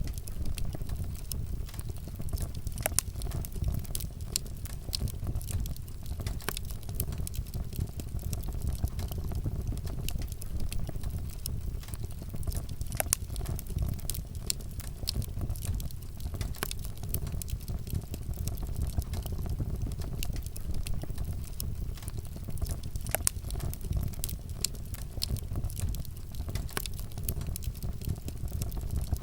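Wood fire burning, a steady low rumble of flames with frequent sharp crackles and pops of burning wood scattered throughout.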